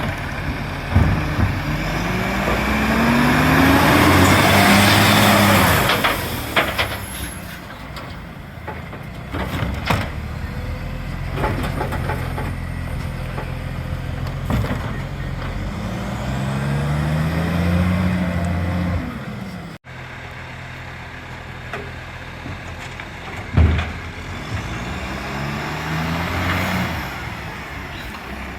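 Diesel garbage truck engine, which has an exhaust leak, revving up three times and settling back, with a burst of air hissing during the first and last revs. Sharp metal knocks come now and then.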